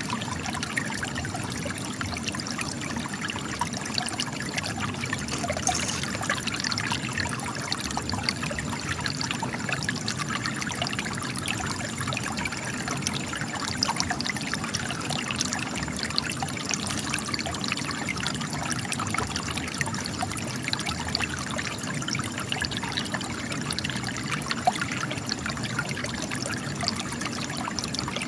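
Spring water trickling and splashing as it spills out of cracks in rock, a steady patter of small drips and splashes.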